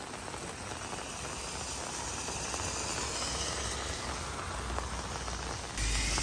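Heavy thunderstorm rain, a steady hiss of downpour with scattered crackles of drops, slowly growing louder. Near the end it jumps suddenly louder, with a strong low rumble beneath the hiss.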